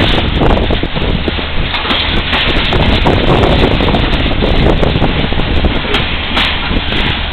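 A passing freight train: rail cars rumbling and clattering over the track, with wind buffeting the microphone.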